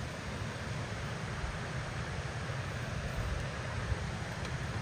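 Steady rushing outdoor noise with a low, fluttering rumble and no distinct events.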